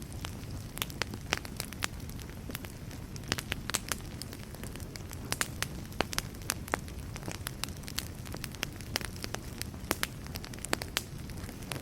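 Wood fire burning steadily with a low rumble and frequent sharp, irregular crackles and pops.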